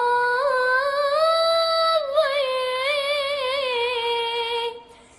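A solo voice singing a long held melismatic line with vibrato, fading out shortly before the end.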